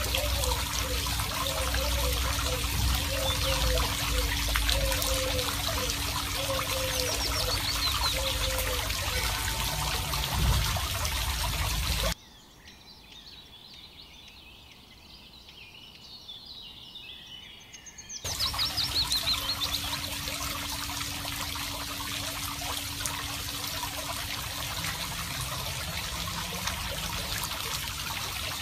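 A thin stream of water from a miniature pump's straw spout trickling and splashing steadily into a small toy pond. The sound drops away sharply for about six seconds midway, then returns.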